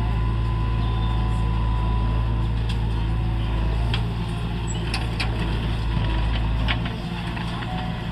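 Mahindra Arjun 555 tractor's diesel engine running steadily under load with a low drone, with scattered clicks and knocks over it; it eases off slightly near the end.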